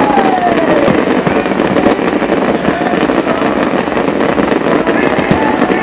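Aerial fireworks bursting and crackling in a dense, continuous barrage, loud throughout, many sharp cracks running together.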